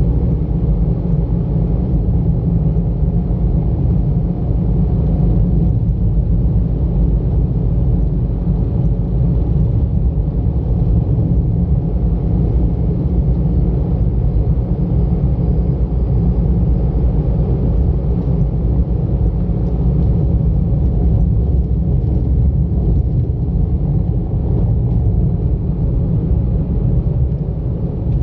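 Car driving along a road, heard from inside: a steady low rumble of engine and tyre noise.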